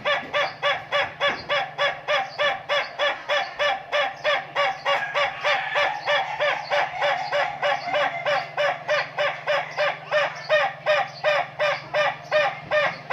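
A rooster crowing in one long, unbroken run of rapid, evenly repeated notes, about four a second.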